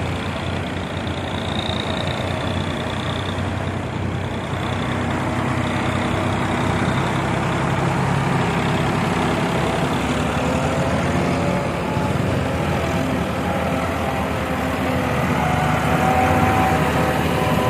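Ford farm tractor's diesel engine running steadily, getting a little louder after a few seconds.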